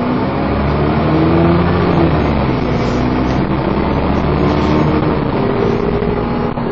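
Dennis Trident 2 double-decker bus's engine and gearbox pulling hard under acceleration, with a vacuum-cleaner-like whine (a hoover). The pitch climbs over the first two seconds, breaks at a gear change, then climbs again and steadies.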